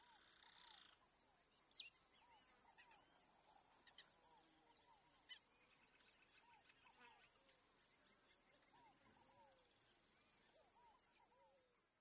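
Faint birds chirping, many short calls scattered through, over a steady high-pitched whine. One short sharp sound just under two seconds in.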